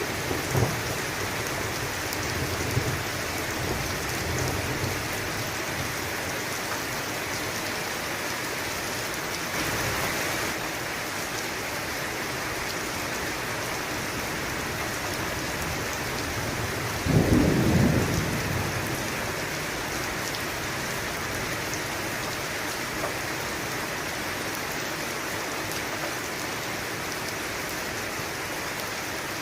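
Steady rain, with a low rumble of thunder dying away in the first few seconds and a loud thunderclap about seventeen seconds in that rolls off over a second or two.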